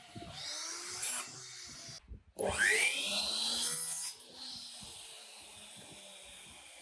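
Tool work on wood: rubbing and rasping, with a short scrape about a second in. Just after two seconds a loud whine rises quickly in pitch and holds for about a second and a half before dying away.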